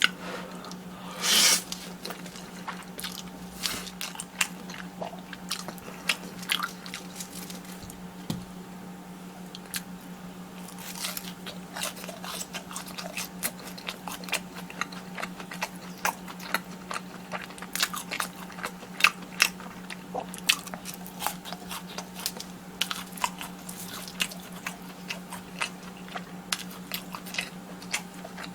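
Close-miked eating: crunchy bites into fried cheese sticks and chewing, with many small crunches and one louder bite about a second and a half in. A steady low hum runs underneath.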